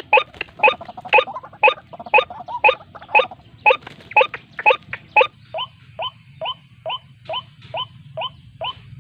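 White-breasted waterhen calling: a harsh, hoarse note repeated about twice a second. About halfway through it changes to shorter, thinner notes that each rise in pitch.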